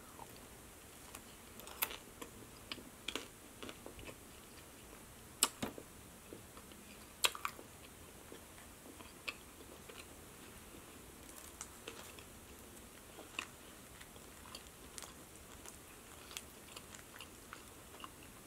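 Close-miked chewing of a soft breadstick: scattered wet mouth clicks and smacks over a quiet background, with a few louder smacks about five and seven seconds in.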